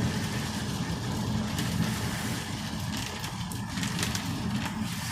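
Inside a moving car in heavy rain: steady engine and road rumble under an even hiss of rain and wet tyres, with a few light clicks.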